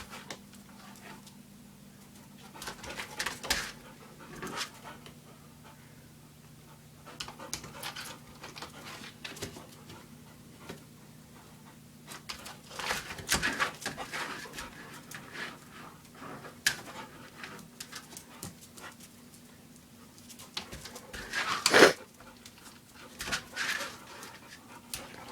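Dogs panting while chasing a laser dot, with irregular bursts of noise and clicks, the loudest about 13 and 22 seconds in, over a faint steady low hum.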